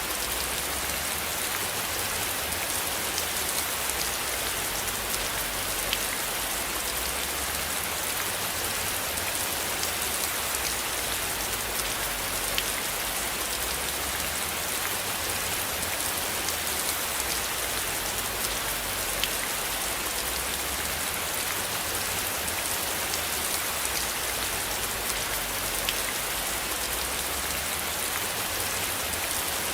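Steady rain falling as an even hiss, with scattered single drops ticking sharply on top. A low rumble swells and fades underneath.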